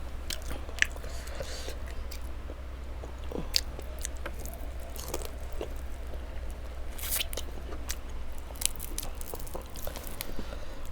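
Close-miked chewing and biting of food, with scattered sharp clicks and soft wet squishes, over a steady low hum.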